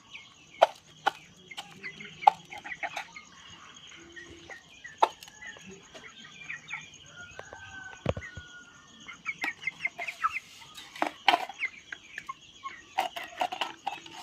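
Chickens clucking, with many short calls throughout and scattered sharp taps. A faint steady high-pitched tone runs underneath.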